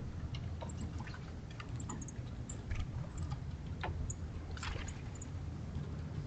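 Acorn woodpecker pecking and tapping at a wooden redwood feeder: irregular sharp taps and clicks, a few close together, over a steady low rumble.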